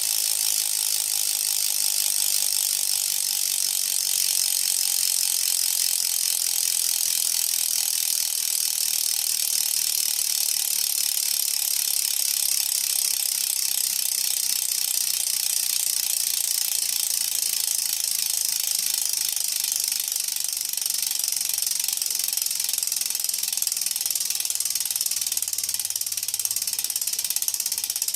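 Mavic Aksium Elite rear hub freewheeling, its freehub pawls clicking in a rapid, steady buzz.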